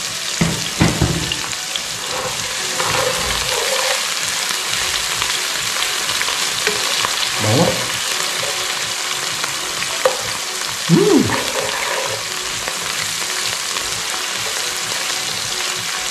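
Onions, garlic and chilies sizzling in hot oil in a wok as a steady hiss, stirred with a wooden spatula. A brief louder sound stands out about two-thirds of the way in.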